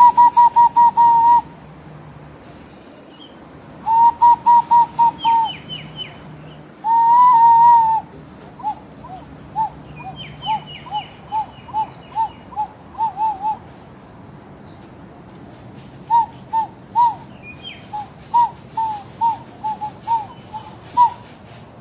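A bird whistling a song of clear notes: quick runs of repeated whistles, one held note, then a string of separate short whistles, with fainter higher chirps among them.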